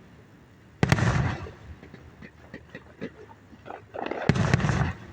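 Two aerial fireworks bursting, about three and a half seconds apart, each a sharp bang with a rumbling tail, with faint crackling between them.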